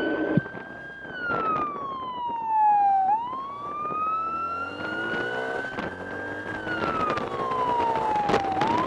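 Police motorcycle's wail siren sweeping slowly up and down in pitch, with the motorcycle engine rising in pitch as it accelerates midway through.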